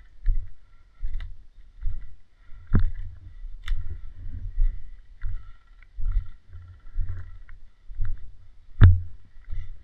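Dull rhythmic thumps, about one and a half a second, like the footsteps of a player moving with a body-worn camera. Two sharp clicks cut through, the louder one near the end.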